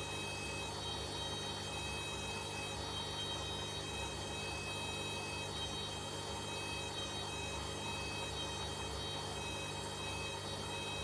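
Hoover H-Wash 300 washing machine running steadily: a constant low hum with a thin high-pitched whine over it.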